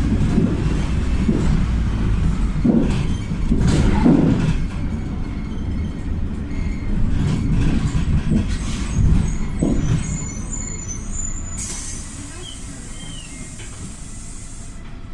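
Inside a PAZ 320414-04 Vector bus on the move: its CNG-fuelled YaMZ-53423 engine running with road noise and body knocks and rattles, all fading as the bus slows down. About two-thirds in a steady hiss of compressed air starts and holds for a few seconds.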